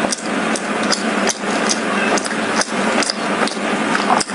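Close-miked mouth sounds of chewing and biting a black glutinous rice cake wrapped in seaweed: a steady wet mashing, broken by many small sharp crisp crunches, a few a second.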